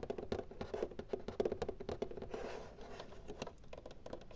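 Close-up ASMR scratching on an object, a dense, rapid run of small clicks and scrapes that eases off slightly after the middle.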